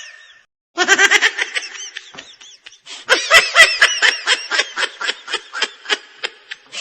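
Laughter in two long bouts of rapid, repeated bursts: the first starts about a second in, and after a short pause the second runs until near the end.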